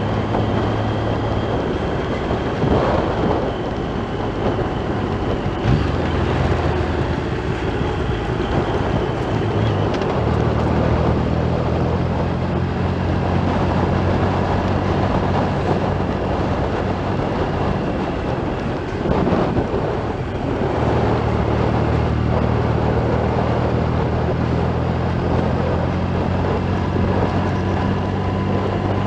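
Motorcycle engine running on the road under heavy wind noise, its note changing in steps several times as the revs change.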